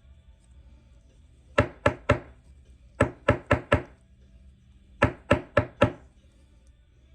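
Sharp taps on a tabletop in three quick groups of three or four, the sound of a card in a plastic top loader being tapped down to seat it.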